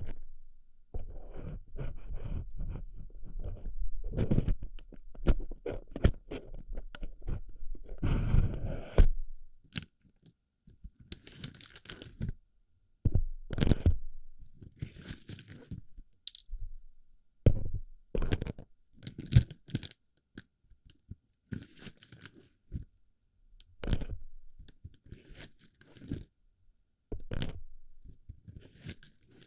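Plastic BB pellets crunching and clicking as they are packed into and rubbed around a microphone's ear, very close up. The crunching is dense for about the first nine seconds, then thins to scattered sharp clicks and short scratchy rustles.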